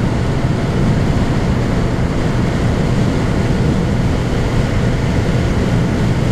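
Motorcycle riding at a steady speed, its engine running under loud, even wind noise on the microphone.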